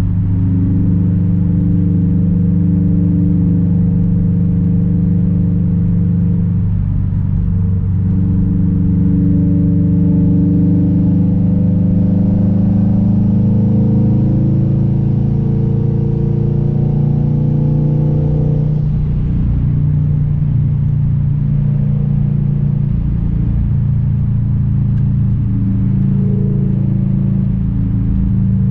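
Straight-piped exhaust of a 2006 Subaru WRX STI's turbocharged flat-four engine, driving under way. The engine note climbs gradually from about a third of the way in as the car pulls through a gear, drops about two-thirds through, then runs steadily lower.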